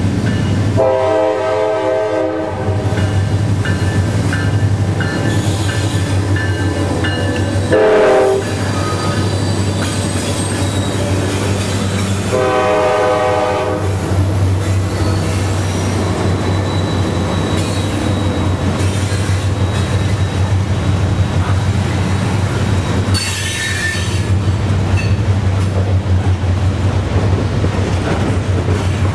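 Nathan K5LA air horn on a Norfolk Southern diesel locomotive sounding a crossing signal: a long chord, a short one, then another long one. The locomotive then passes with its engine rumbling, and the coal cars roll by with clattering wheels and a brief high wheel screech later on.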